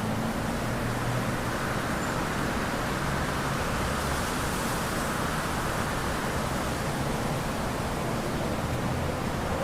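Wind blowing through a stand of bamboo: a steady, even hiss of moving leaves and stems, with a low rumble underneath.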